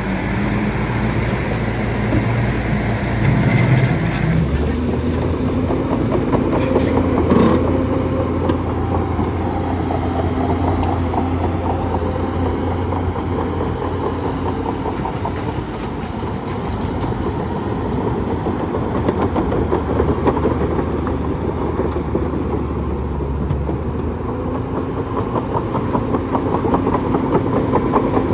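Bulldozer's diesel engine running under load with the steel crawler tracks clanking and rattling, the engine note changing about four seconds in and a few sharp metal clanks a few seconds later.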